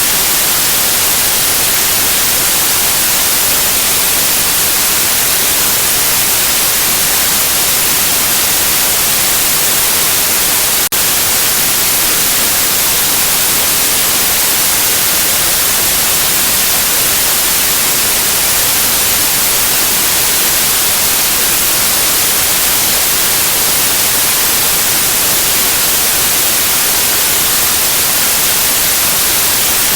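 Loud, steady white noise: an even hiss, brightest in the high end, with no rhythm or tone. It is unbroken apart from one brief click about a third of the way through.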